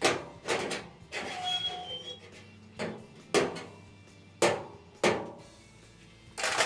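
Hammer blows on steel body panel: about seven sharp, ringing knocks at uneven intervals.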